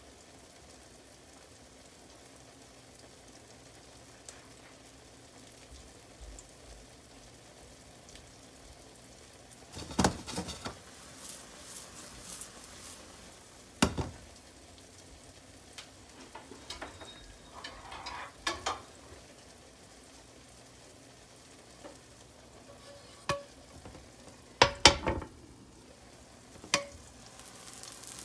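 Egg pancake batter with onion and bell pepper frying in a nonstick pan, a low steady sizzle. A few sharp knocks and clatters break in, the loudest about ten, fourteen and twenty-five seconds in.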